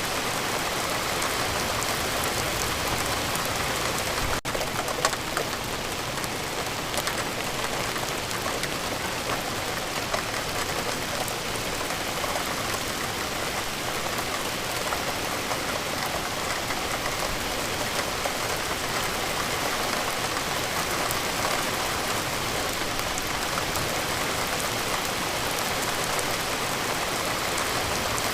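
Steady, even rain falling, with many scattered sharper drop hits through it. There is a momentary gap in the sound about four seconds in.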